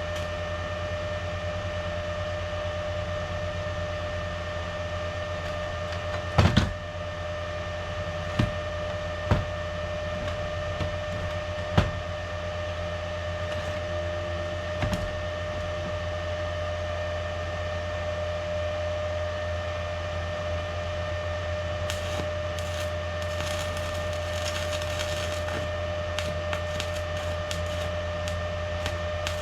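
Steady electrical machine hum with a few fixed tones, broken by five sharp knocks about six to fifteen seconds in, the first the loudest, and a few seconds of light crackling near the end.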